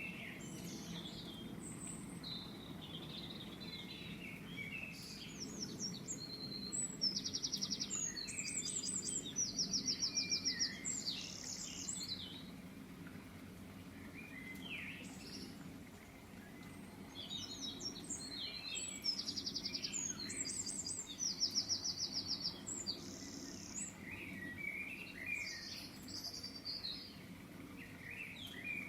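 Birds chirping and singing, with bursts of fast trilling notes that come twice, over a steady low hum.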